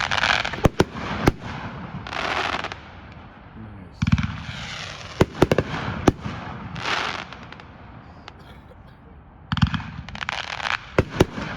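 Consumer firework cake ("Colossal Spread") firing volleys of shots. Each shot gives a low thump at launch, a hissing rise, then sharp cracking breaks overhead. New launches come about four and nine and a half seconds in.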